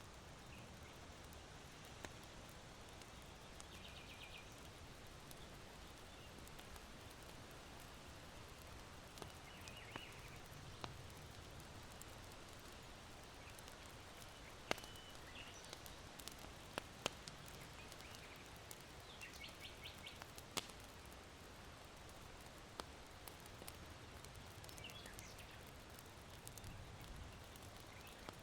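Charcoal burning in an irori hearth, giving sparse sharp pops and crackles over a soft, steady wind hiss. Short high chirps of small birds come a few times.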